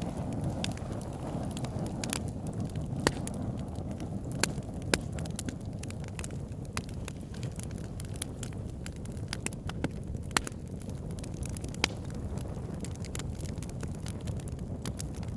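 Wood fire burning: a steady low rumble of flames under irregular crackles and pops from the burning wood, with a few louder snaps scattered through.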